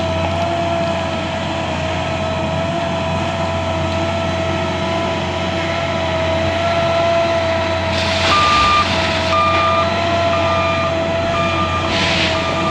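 L&T 9020 wheel loader running steadily with a high engine whine. Its reversing alarm starts beeping about eight seconds in, roughly once a second. Two short bursts of noise come near eight and twelve seconds in.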